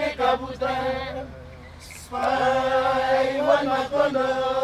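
A group of voices chanting a traditional Papua New Guinean song together in long held notes. The chant breaks off about a second in and comes back in just after two seconds.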